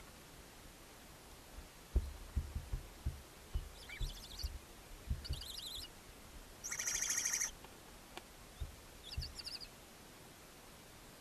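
Barn owl owlets in the nest box giving short raspy calls, then one louder, longer hissing screech of about a second, typical of begging for food. Dull thumps and knocks from birds moving against the wooden box come underneath.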